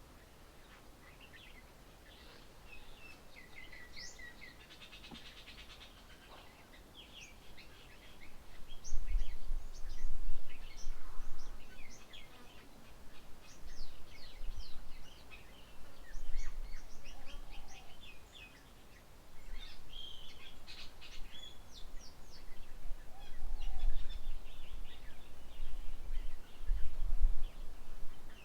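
Several small birds chirping and calling in quick, short notes, busiest through the middle. A low rumble comes and goes from about a third of the way in and is louder than the birds.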